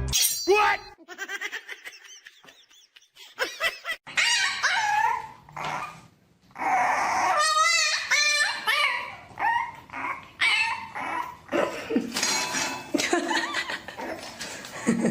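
Dogs barking and whining in short bursts, with one quavering, drawn-out call about halfway through.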